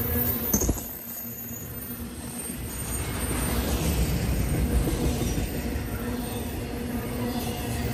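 Intermodal freight train rolling by: double-stack container cars and trailer flatcars rumbling over the rails. A sharp clank about half a second in is followed by a brief dip before the rumble builds again.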